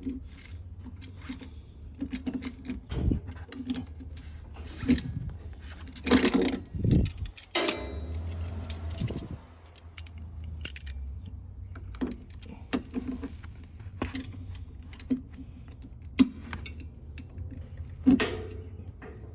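Irregular light metallic clinks and knocks of metal tools and parts being handled during plumbing work, with a steady low hum underneath.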